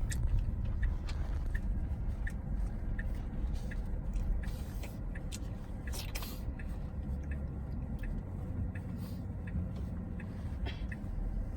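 Road and tyre noise inside a moving Tesla's cabin: a steady low rumble with no engine note, with a faint, even ticking about two and a half times a second.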